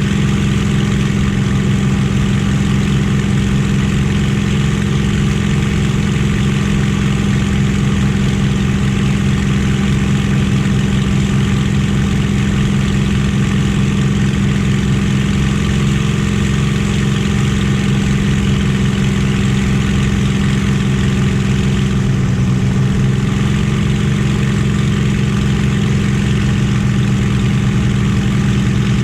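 Merlin V-12 warbird aero engine running steadily at constant power: a loud, low, even engine note that hardly changes pitch, with a slight shift about 22 seconds in.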